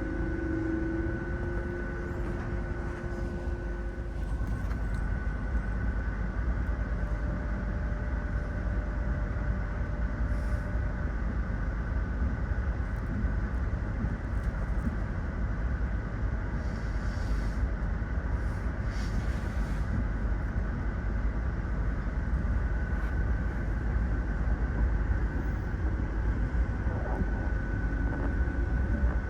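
Steady rumble of a train rolling on the rails, heard from aboard, with a few steady tones running over it. Two brief hisses come about two-thirds of the way through.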